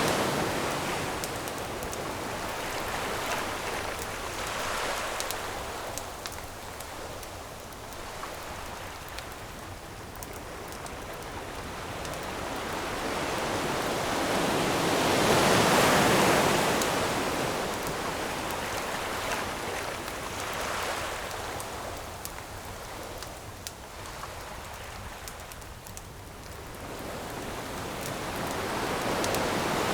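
Ocean waves washing onto the shore: one wave builds to a peak about halfway through and another rises near the end. Faint, scattered crackles and pops of a wood campfire run through it.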